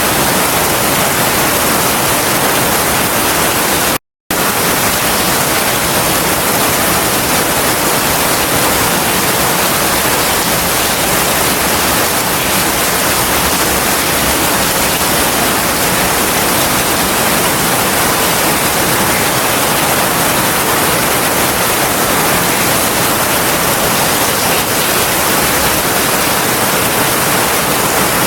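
Heavy rain falling steadily as a dense, even hiss. It cuts out completely for a split second about four seconds in.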